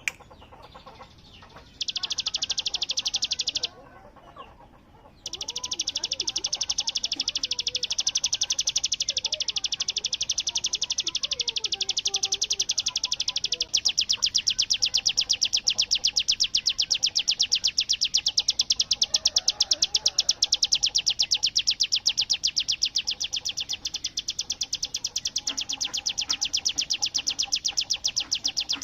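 Ciblek gunung, a prinia, singing a rapid buzzing trill of very fast, evenly repeated high notes: the machine-gun-like 'bren' delivery. It breaks off twice in the first five seconds and then runs on unbroken, with faint softer chirps from other birds beneath it.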